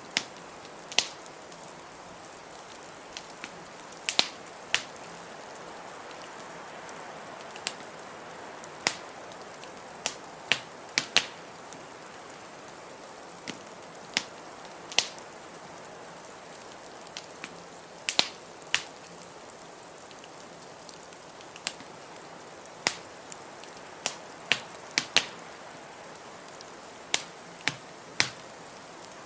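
Wood fire in a fireplace crackling: sharp, irregular pops, roughly one a second and some in quick pairs, over a steady soft rushing noise.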